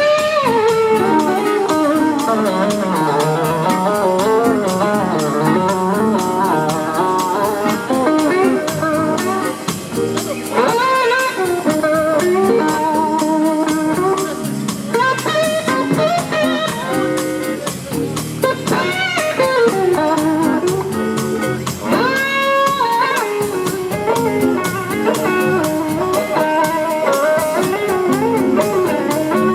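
Live blues-rock band playing an instrumental section: an electric guitar solo with gliding, bending notes over the band.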